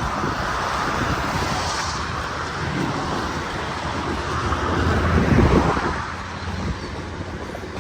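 Diesel-hauled freight train rolling through the rail yard: a steady low rumble with wheel noise, swelling to its loudest about five seconds in.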